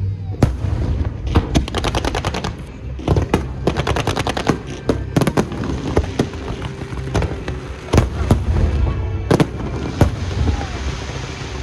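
Fireworks display: aerial shells bursting in a rapid, irregular series of sharp bangs and crackles over a continuous low rumble.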